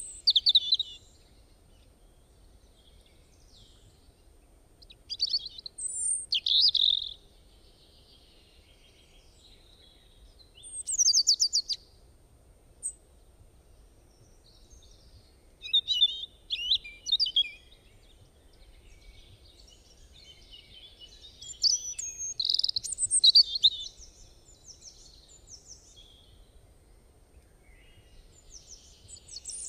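Songbirds chirping and singing in short phrases every few seconds, with quiet gaps between and a fast trill about eleven seconds in.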